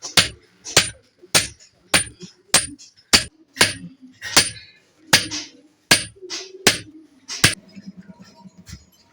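Hammer striking iron with a ringing metallic clink, about twelve blows in a steady rhythm of roughly one and a half a second. The blows stop shortly before the end, leaving only faint knocks.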